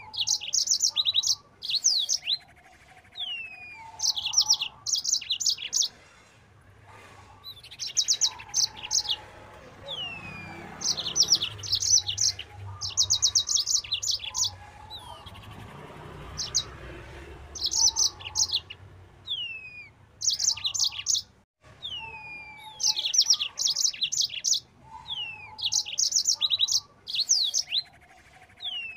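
Yellow-fronted canary singing at full pace: bursts of rapid, high trilled notes every couple of seconds, broken up by short falling whistles.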